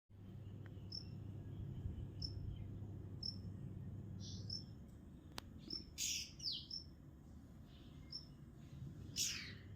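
A small bird chirping: short high chirps repeating about once a second, with a few louder, harsher sounds about six and nine seconds in, the last one falling in pitch. A steady low hum runs underneath.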